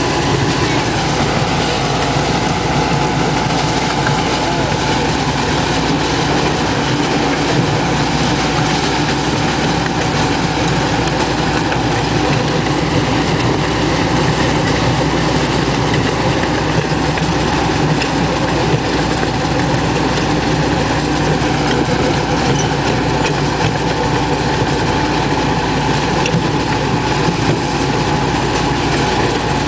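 Park ride train running steadily along its track, heard from aboard: an even rumble of wheels and running gear with a steady engine hum.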